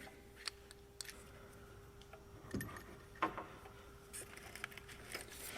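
Faint scattered clicks and small rattles of hands working a plastic-wrapped engine wiring harness and its connectors, over a faint steady hum.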